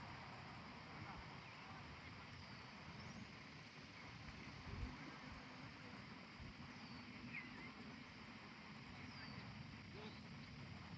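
Faint outdoor ambience: a steady, high-pitched pulsing trill at about five pulses a second, a few short high chirps and a low rumble, with one soft thump about five seconds in.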